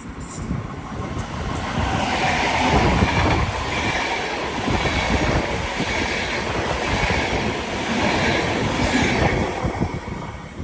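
A train passing on the line: the rail noise builds over about two seconds, holds with a high ringing tone over the rumble of the wheels, then dies away near the end.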